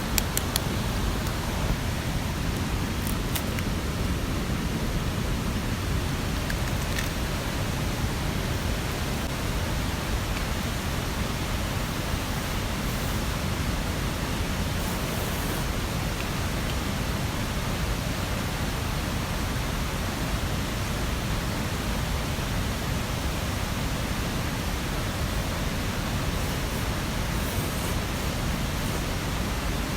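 Steady rushing wash of a mountain stream and rain, even and unbroken, with a few faint ticks in the first several seconds.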